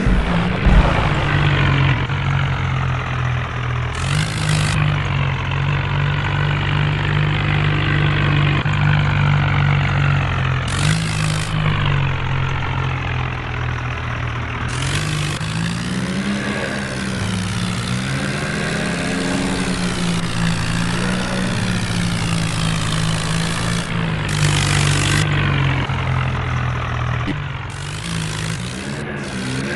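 Tractor diesel engine running steadily, its pitch dipping and rising again around the middle as the revs change. Short bursts of hiss come over it several times.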